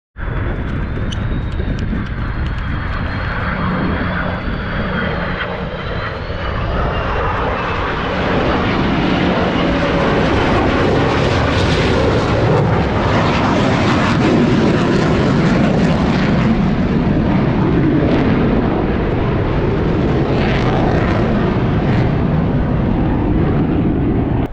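Military aircraft in a formation flypast, engines running loud and continuous. A high whine slowly falls in pitch over the first several seconds, and the engine noise swells about a third of the way in and stays loud.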